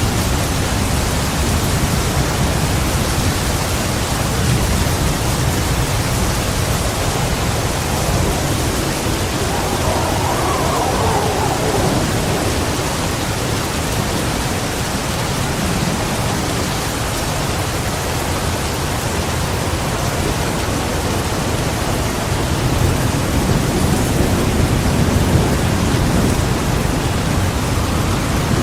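Heavy rain falling steadily, with low rolling thunder rumbling underneath; the rumble builds again near the end.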